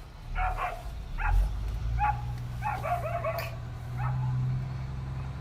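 A dog barking in short, high-pitched yaps, about ten of them, several in quick succession around the middle, over a steady low hum.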